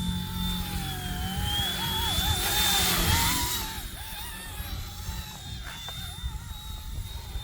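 Small electric RC helicopter (RC ERA 186C Pro) whining in flight, its motor pitch wavering up and down with throttle and steering corrections, over wind rumble on the microphone. A louder rushing swell comes about two to three seconds in.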